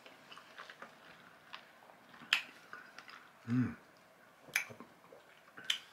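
Close-up chewing of a fresh strawberry: wet mouth clicks and smacks, three of them sharper than the rest, with a brief low hum of the voice about halfway through.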